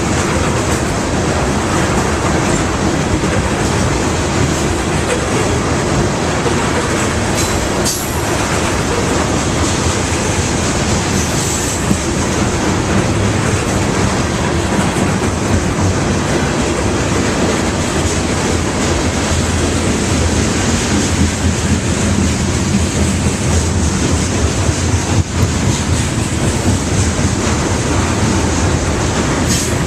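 Loaded crude oil tank cars of a freight train rolling past, a steady rumble with the clickety-clack of steel wheels over the rail joints, and a few brief high wheel squeals.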